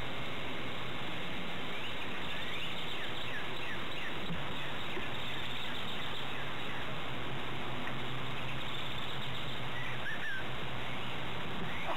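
Steady outdoor background hiss with faint bird chirps, a cluster of short chirps about two to four seconds in and another couple near ten seconds.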